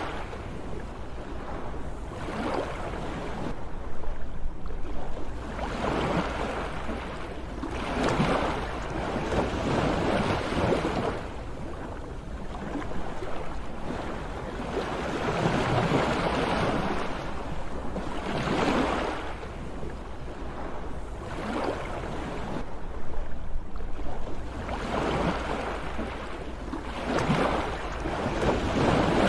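Sea waves washing in, each surge of surf rising and falling every two to three seconds, over a steady low rumble.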